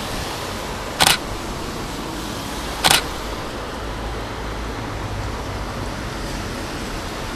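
Fujifilm X-Pro2 shutter clicking twice, about two seconds apart, over a steady rush of street and traffic noise.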